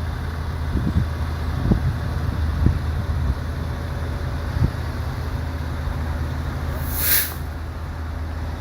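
A vehicle engine idling with a steady low rumble, with a few dull knocks in the first half and a short burst of hiss about seven seconds in.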